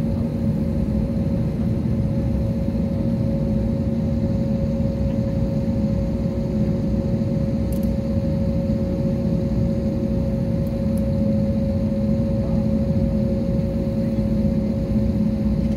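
Steady airliner cabin drone while the plane waits on the ground for take-off: engines at idle and cabin air running, with a constant low hum tone. A couple of faint clicks in the cabin about halfway through.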